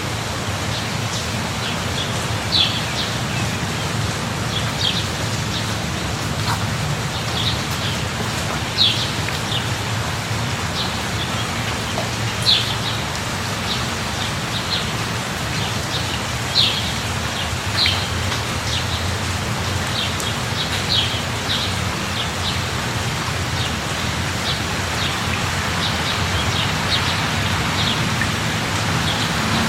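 Steady light rain falling, with a bird's short high chirps coming every second or two.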